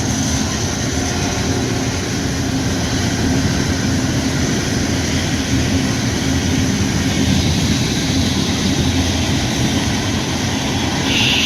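Freight train rolling steadily past, a continuous low rumble from its cars and wheels, with the hiss of steady rain over it.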